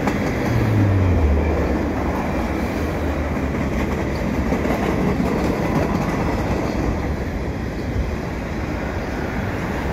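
Covered hopper cars of a freight train rolling past steadily on the rails, with a brief low falling drone about a second in.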